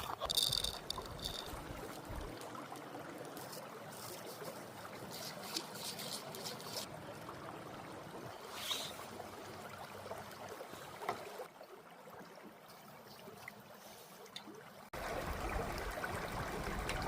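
A small stream trickling steadily, with a few light clicks and knocks. The sound changes abruptly three times, growing fuller and louder near the end.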